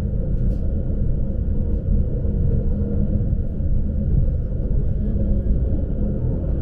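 Lastochka electric train running along the line, heard from inside the carriage: a steady low rumble of wheels and running gear with a faint even hum.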